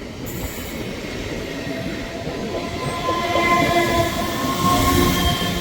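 Train running past on a sharp curve, rumbling steadily, with a drawn-out ringing tone building up over the second half and growing loudest near the end.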